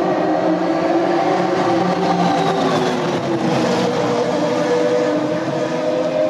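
Formula One race car engines running at high revs together, several steady engine notes with pitch slowly shifting as cars pass, heard through TV broadcast sound.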